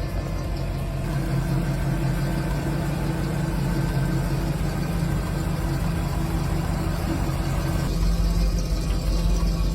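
Car engine idling steadily with a deep, low note; it grows louder and heavier about eight seconds in.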